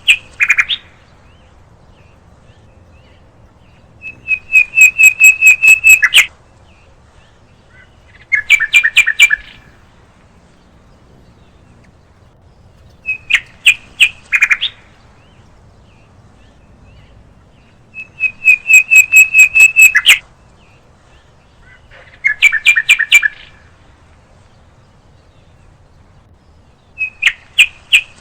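A bird calling in repeated bouts, each a quick run of sharp notes, coming back every four to five seconds. Some bouts hold one pitch throughout, while others step down to a lower note.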